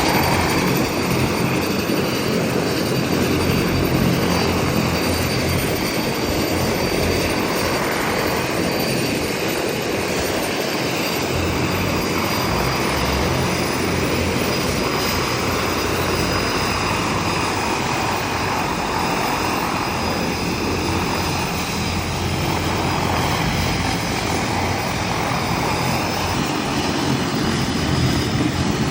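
De Havilland Canada DHC-6-300 Twin Otter's two PT6A turboprop engines and propellers running steadily, a loud, unbroken drone.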